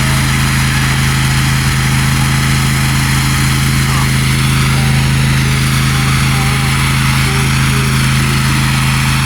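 Riding lawn mower engine running steadily at a constant speed, its pitch unchanging.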